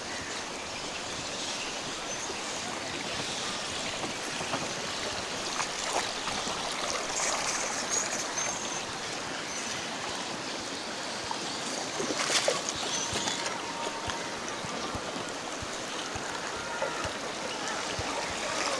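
Swat River water rushing steadily, with a few faint short chirps and one sharp click about twelve seconds in.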